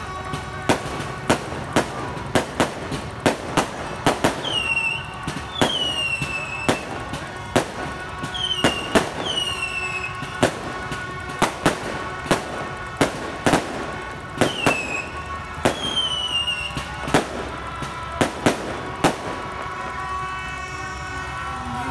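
Fireworks going off in a rapid, irregular string of sharp bangs, with several short falling whistles among them.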